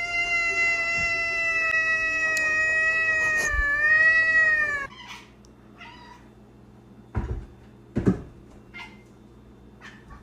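A cat giving one long, steady, high-pitched squeaky meow that cuts off about five seconds in. Later come two short dull knocks.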